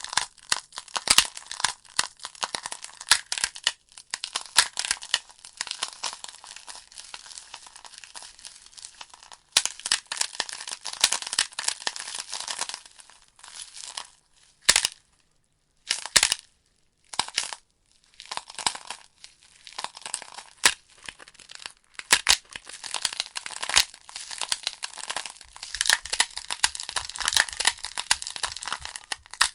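Wood logs burning in a fireplace, crackling with a dense run of sharp snaps and pops. Around the middle the crackling drops away for a few seconds to near silence, with only a few isolated pops, then picks up again.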